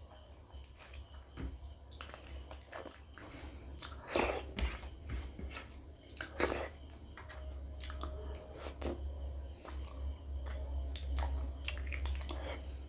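Close-miked eating: a person biting meat off a pork rib in spicy curry and chewing with wet mouth clicks and smacks. Two sharper, louder sounds come about four and six and a half seconds in, over a steady low hum.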